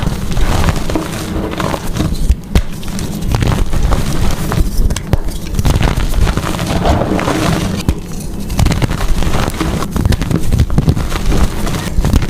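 Blocks of gym chalk being crushed and crumbled, a dense run of crunching and crackling that comes in surges.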